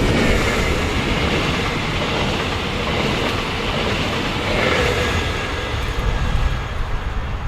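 A train passing on the tracks: steady, loud rolling noise of wheels on rail.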